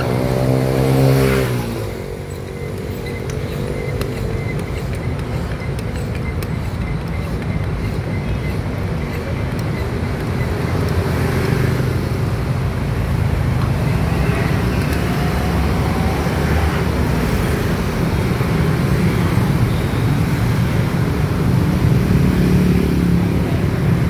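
An engine revving up, its pitch rising over the first second or so, then running steadily with road noise.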